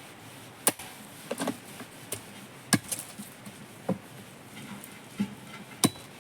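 A series of sharp knocks, like chopping on wood, about six strikes at uneven intervals, with a quick cluster of two or three about a second and a half in.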